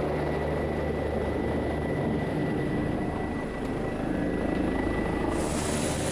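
Helicopter flying close overhead, its rotor and engine giving a steady drone. About five seconds in, a hiss across the higher range joins it.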